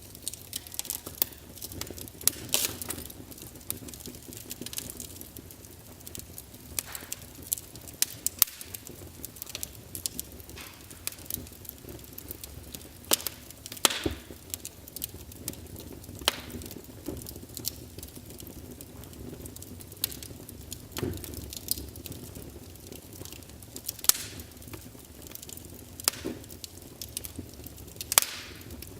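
Wood fire burning in a fireplace, logs crackling and popping at irregular moments over a low steady hiss of the flames.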